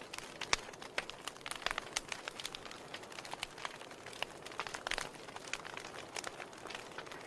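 Wood fire crackling in a fireplace: many irregular sharp pops and snaps of burning firewood over a soft steady hiss of flame.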